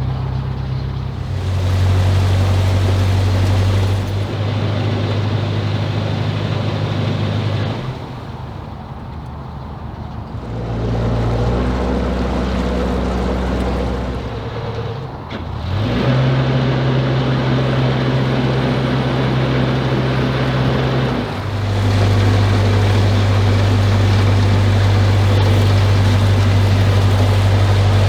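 Narrowboat diesel engine running, its note stepping up and down several times as the throttle is worked during manoeuvring. It dips around a third of the way in and again about halfway, then rises and holds steady for the last few seconds.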